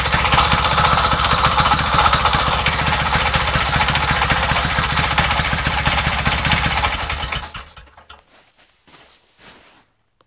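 Homemade quad bike's engine running steadily with a fast, even exhaust pulse, then shut off about seven and a half seconds in, followed by a few faint knocks and rustles.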